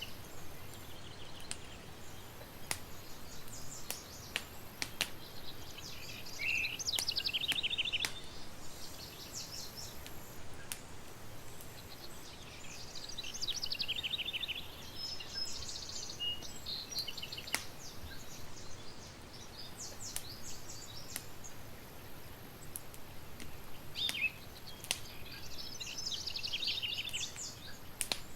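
Campfire crackling with scattered sharp pops over a steady hiss, while birds sing in three short bouts of rapid high chirps.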